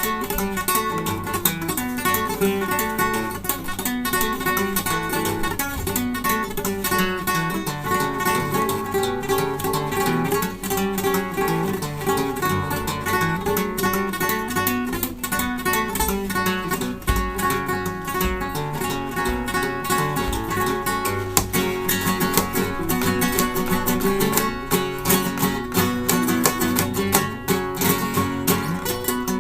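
Solo flamenco guitar playing fandangos, a fast run of plucked notes broken by strummed chords.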